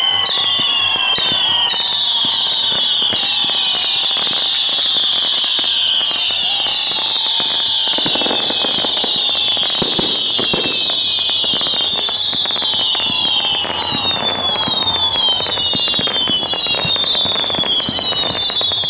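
Short-tube whistling fireworks (apito em cano curto) firing in a rapid barrage. Many shrill whistles overlap, each falling in pitch, with sharp pops and crackles scattered through and a few heavier bangs about eight and ten seconds in.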